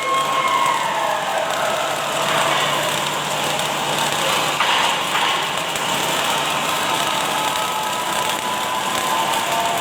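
Automatic welding machine and factory floor running: a steady hiss with faint machine tones, one of them falling in pitch over the first second and a half.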